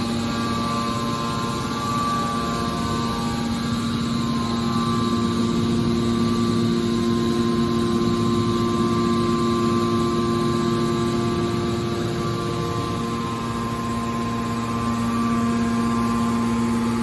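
Steady hum of running machinery, with several held tones over a constant noise and no knocks or impacts.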